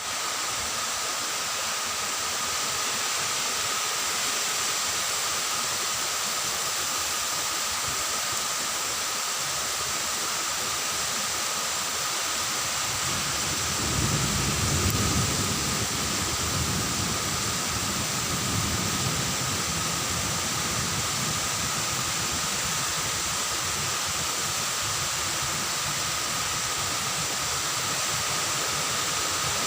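Steady rain falling, an even hiss, with a low rumble swelling briefly about halfway through.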